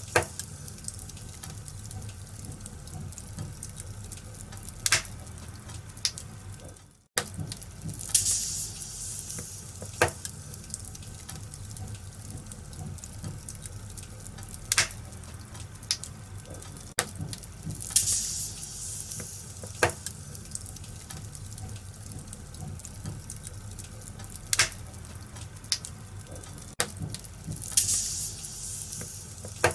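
Wood fire in a fireplace crackling: a steady hiss with sharp pops every few seconds. The sound cuts out for a moment about seven seconds in.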